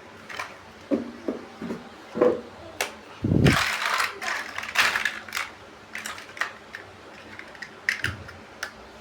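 Plastic building bricks being handled: a series of sharp clicks and taps, a dull knock about three and a half seconds in, and a second or so of loose pieces rattling.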